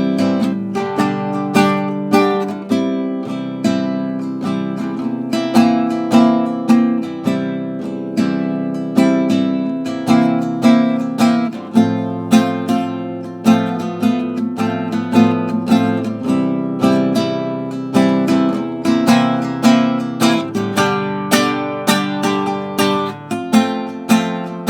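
Acoustic guitar strummed in a steady rhythm, an instrumental break of chords between sung verses of a blues-rock song.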